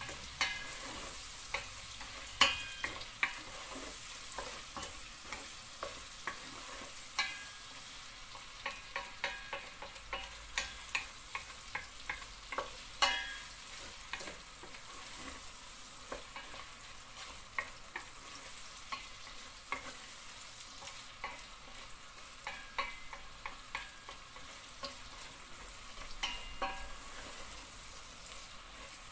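Meat and chopped onions sizzling in a stainless steel pot while a wooden spoon stirs them, scraping and knocking against the pot at irregular moments over a steady frying hiss. The loudest knocks come about two seconds in and near the middle.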